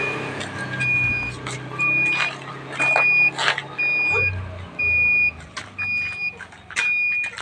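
Vehicle reversing alarm beeping steadily, one even-pitched beep about every second, with scattered short knocks and clatter in between.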